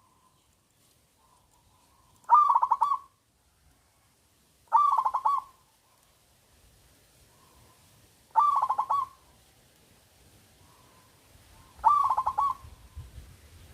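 Zebra dove (perkutut) singing: four short, rapidly pulsed cooing phrases a few seconds apart, with soft faint notes between them.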